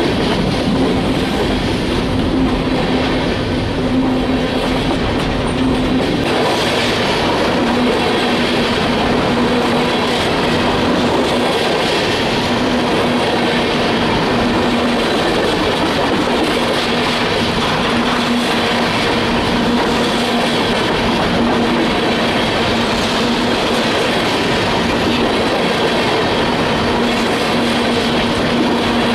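Freight train rolling past steadily, the noise of its wheels on the rails continuous, with a steady low tone running beneath.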